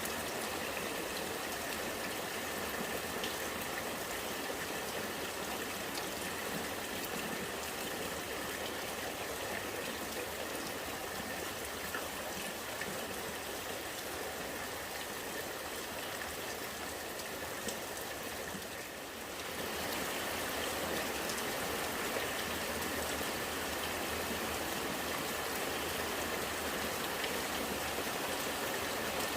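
Steady rain with rainwater running and gurgling, scattered faint drop ticks on top. The sound dips briefly about 19 seconds in, then comes back a little louder.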